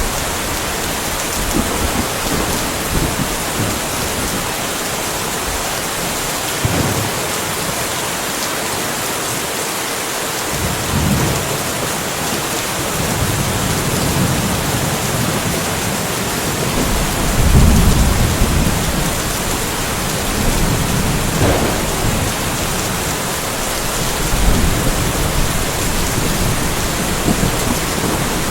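Steady rainfall hiss with several low rumbles of thunder. The loudest rumble comes about two-thirds of the way through.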